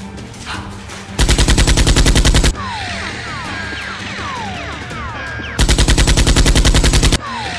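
Two bursts of rapid machine-gun fire, about ten shots a second. The first comes about a second in and lasts over a second; the second comes near the end and lasts about a second and a half. Between the bursts is a run of short falling whistles.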